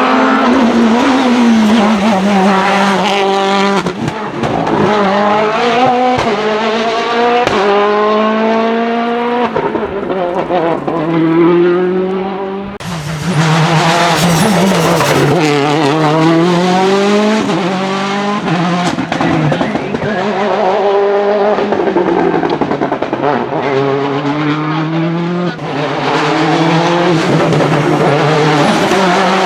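Citroën DS3 WRC rally car's 1.6-litre turbocharged four-cylinder engine revving hard through the gears, its pitch climbing and dropping again and again as it accelerates, shifts and lifts off. About 13 seconds in, the sound cuts abruptly to another run of the same kind.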